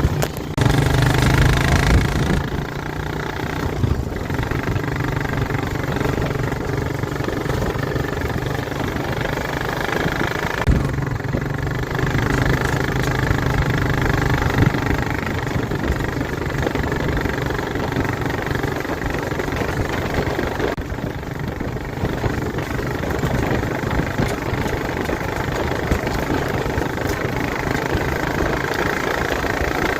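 ATV engine running under way off road, its note easing off and picking up again with the throttle, with brief let-offs about a third and two thirds of the way through.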